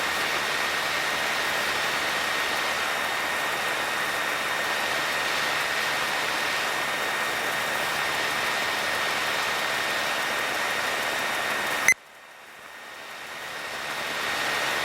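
Piper PA-28 Cherokee's piston engine and propeller running steadily in flight, heard as a continuous cockpit drone with a steady high whine. About twelve seconds in there is a click, then the sound drops out abruptly and fades back up over a few seconds.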